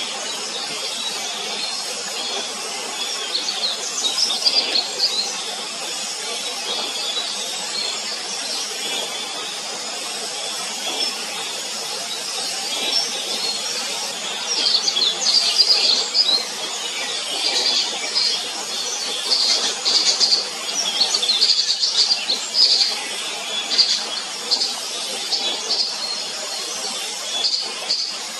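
High, thin bird chirps in short rapid runs, a few early on and then busy and repeated from about halfway through, over a steady background hiss.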